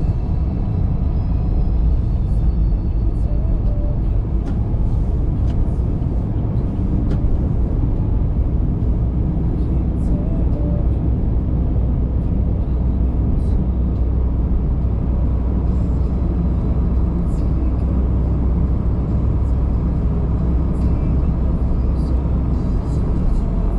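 Car driving at a steady pace: continuous low road and engine rumble, with faint scattered ticks.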